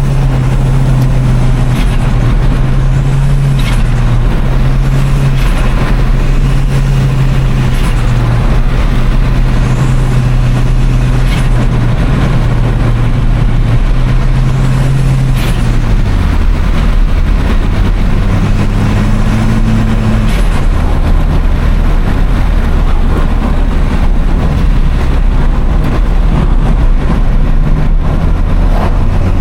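Turbocharged small-car engine, presented as a 1996 Toyota Starlet Glanza V, running loud and steady as heard on the move. The engine note drops to a lower pitch about halfway through. The uploader marks the content as AI-generated.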